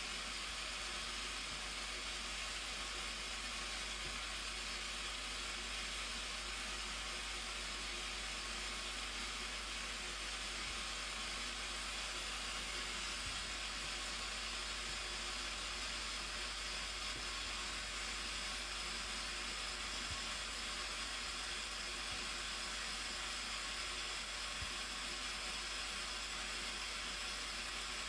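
Steady, even hiss of rushing, falling water from a large waterfall, unchanging throughout.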